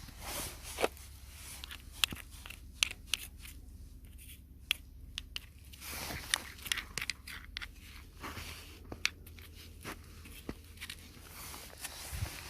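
Irregular sharp clicks and crisp crunching and crackling, a few strokes each second, over a faint steady low hum.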